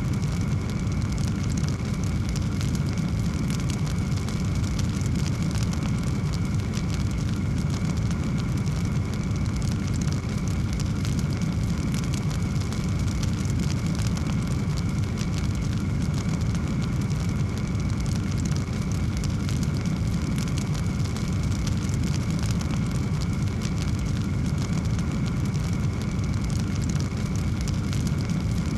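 Fireplace wood fire crackling, with many small pops over a steady low roar.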